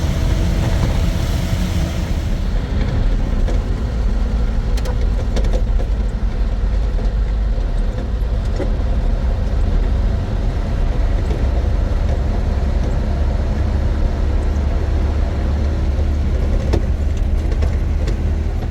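A motor vehicle driving, its engine and road noise making a steady low rumble with a faint even hum.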